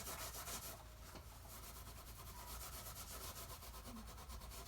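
Wire wool rubbing wax into the bare wood of an old wooden toolbox: steady rubbing that dips a little about a second in.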